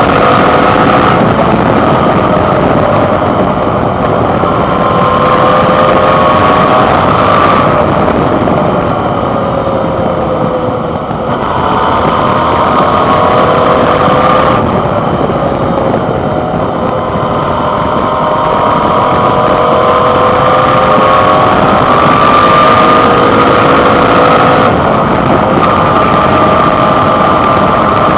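Suzuki V-Strom 650 XT's 645 cc V-twin engine running under way on a ride, its pitch rising and falling several times with the throttle, with a dip about eleven seconds in. Recorded from the handlebar, close to the engine.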